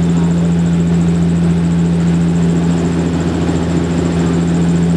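A commercial propeller airliner's engine and propeller heard from a cabin seat right beside the propeller: a loud, steady drone with a strong low hum, unchanging in pitch.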